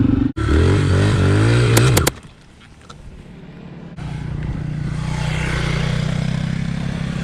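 Dirt bike engine accelerating, its pitch rising for about a second and a half, then suddenly falling away to a low level. About four seconds in, it comes back and runs steadily at an even pitch.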